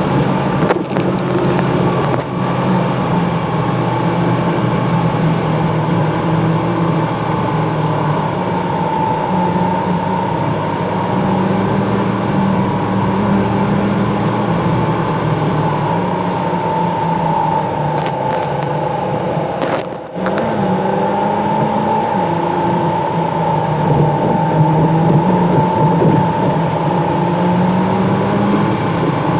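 Car driving noise, engine and road together, running steadily and played back at four times speed, with a short dip about two-thirds of the way through.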